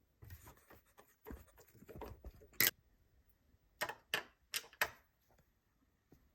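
Handling noises from working on a dishwasher: scraping and knocking of parts, then four sharp clicks about a second apart.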